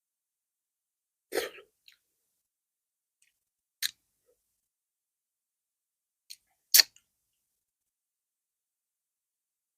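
Eating noises in the mouth and throat during a fufu and okra soup meal: a short throat or swallowing sound about a second in, then a few sharp mouth clicks, the loudest near the end.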